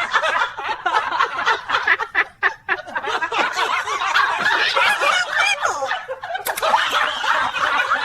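People laughing hard without letup, in fast repeated bursts.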